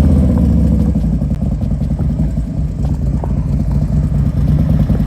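Harley-Davidson V-twin motorcycle engine running close by at low speed, a loud, steady pulsing rumble.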